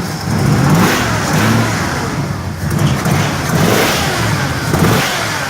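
1979 Camaro Z28's small-block Chevy V8, said to be a cammed 383 stroker, running on its first start-up and revved in several throttle blips that rise and fall.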